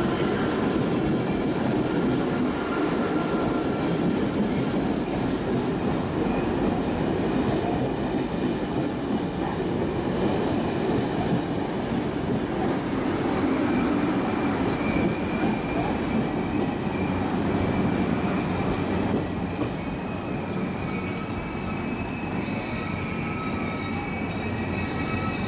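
A train running past on the rails, a steady rolling rumble of wheels and cars. About halfway through, high-pitched squealing tones from the wheels come in and hold on.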